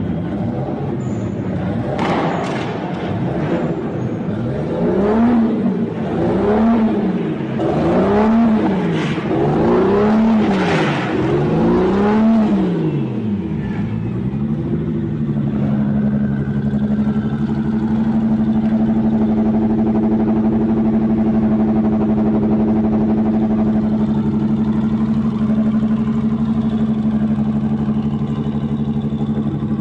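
Toyota 2JZ-GTE inline-six engine running and revved about six times in quick rises and falls, then held at a steady, fast idle for the second half.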